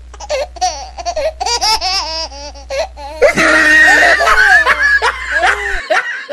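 People laughing heartily in quick bursts. From about three seconds in, several voices laugh together and it gets louder. A steady low hum runs underneath until just before the end.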